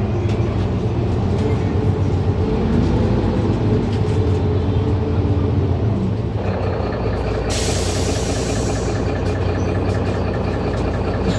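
Mercedes Citaro C2 city bus engine idling steadily at a stop. About seven and a half seconds in, a sharp hiss of compressed air from the bus's pneumatics lasts about two seconds.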